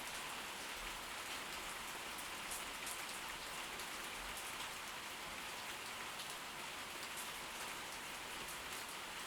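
Steady heavy tropical-storm rain falling, an even hiss with scattered drop ticks.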